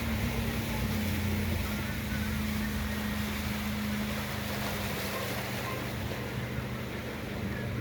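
An engine running steadily with a low, even hum, under a constant rushing noise.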